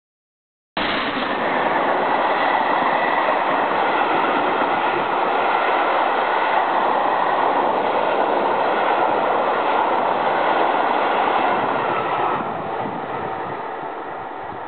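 Passenger train going past at speed: a steady rush of wheels running on the rails that cuts in suddenly about a second in, then dies away over the last couple of seconds as the train recedes.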